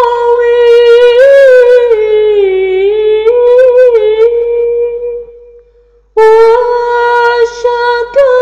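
A single woman's voice singing a long, ornamented melismatic phrase on held vowels, with no accompaniment. It fades out about five seconds in, and after a short pause a new held phrase begins.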